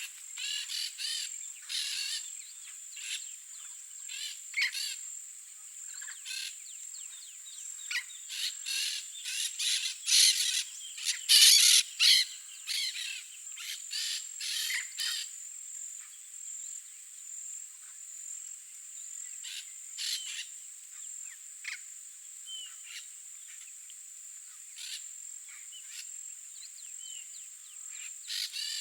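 Yellow-faced parrots giving short, harsh calls in irregular clusters, loudest and most frequent about ten to twelve seconds in and sparser later, over a steady high-pitched insect drone.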